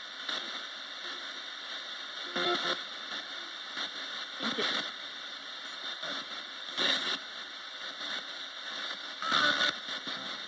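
Roberts radio used as a ghost box, putting out steady static hiss broken by brief snatches of broadcast sound about every two seconds.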